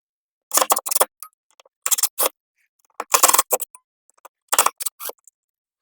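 Sharp knocks and taps on wood framing, in four quick clusters about a second apart.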